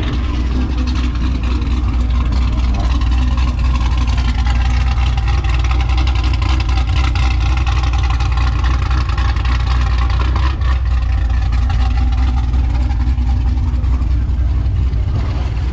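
Motor vehicle engine running with a steady low rumble. A higher engine tone comes up in the middle and fades again near the end.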